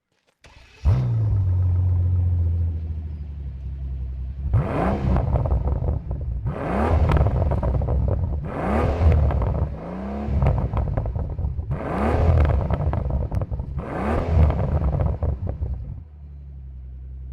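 Mercedes-Benz SL65 AMG Black Series 6-litre V12 biturbo engine starting up with a flare that settles into idle. It is then blipped on the throttle about six times, roughly every two seconds, each rev rising and falling, and returns to a lower, steady idle near the end.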